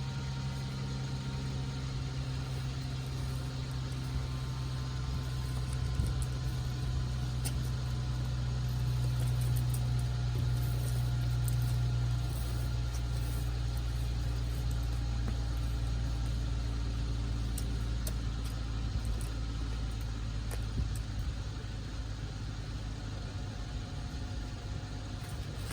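An engine idling steadily, its low hum easing slightly about halfway through.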